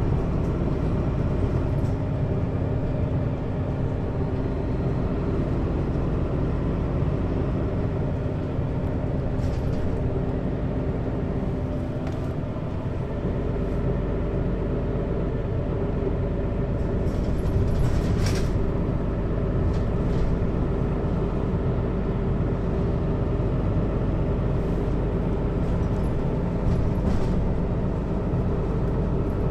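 Mercedes-Benz Citaro city bus engine and ZF Ecomat automatic transmission running steadily, heard inside the bus above the engine, with a few short rattles, the clearest about 18 seconds in.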